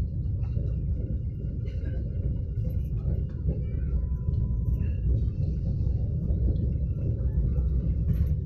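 Steady low rumble of a moving train, heard from inside the coach, with faint voices over it.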